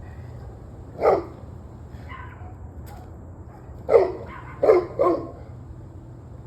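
A dog barking in short single barks: one about a second in, a fainter one soon after, then three loud barks in quick succession past the middle, over a steady low background hum.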